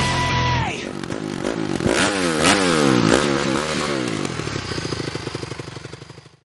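Motocross bike engine revving up and down several times, then running more steadily and fading out. A held note of music falls away just before the engine comes in.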